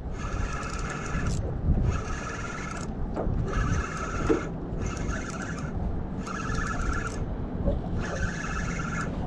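Spinning reel being cranked to wind in a hooked fish, its gears whirring in about six spurts of roughly a second each with short pauses between, over a steady low rumble.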